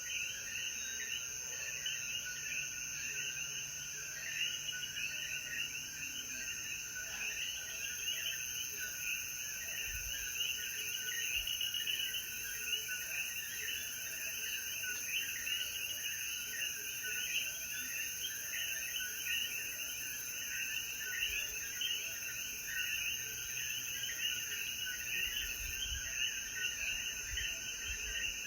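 A dense chorus of Puerto Rican coquí frogs, many overlapping short two-note calls rising in pitch, calling after rain, over a steady high-pitched drone of night insects.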